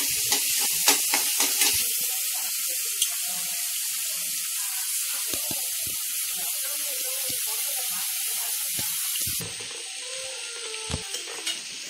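Chopped onions and green chillies sizzling in oil in a non-stick pan, a steady hiss, with a few light spatula scrapes in the first couple of seconds. The hiss drops quieter about nine and a half seconds in.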